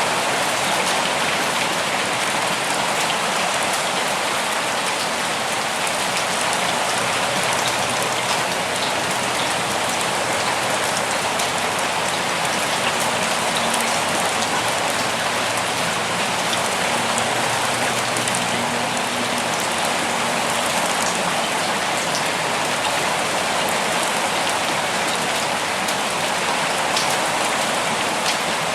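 Steady rain falling, a dense even patter with fine individual drop ticks throughout.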